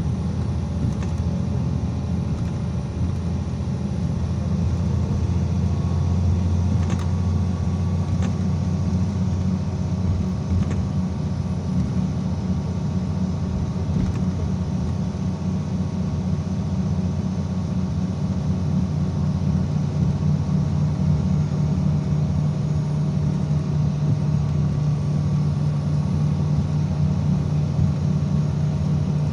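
IVECO Crossway 13M PRO city bus under way, heard from inside the passenger cabin: a steady low engine and road rumble whose hum shifts higher in pitch through the second half. Two faint clicks come about seven and eight seconds in.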